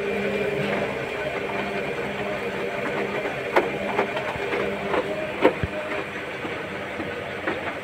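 Whirlpool front-loading washing machine running its cycle: a steady mechanical hum from the motor and drum, with a few sharp knocks about three and a half, four and five and a half seconds in.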